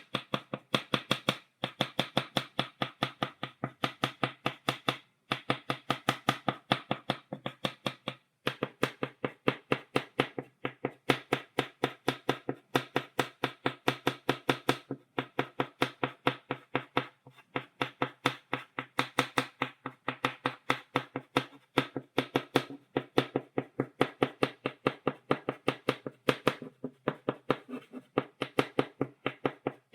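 Chalk tapped repeatedly against a blackboard, stippling dots. Sharp taps at about four a second, in runs broken by brief pauses every few seconds.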